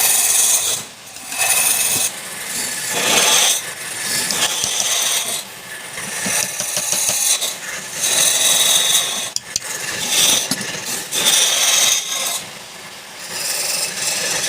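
Wood being cut or scraped on a lathe: a harsh, hissing scrape that comes in repeated passes of a second or two, with short breaks between them.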